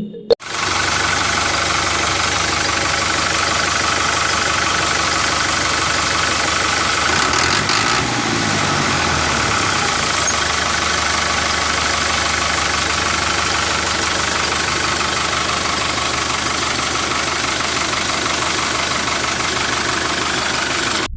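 Small electric motor of a homemade model tractor running steadily with a fast whirring rattle.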